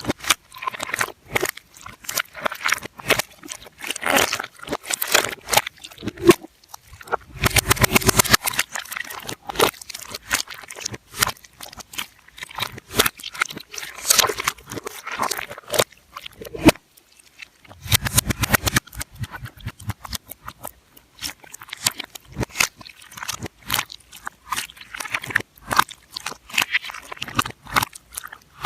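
Rapid, irregular crunching and crackling clicks with a few thicker bursts, played backwards.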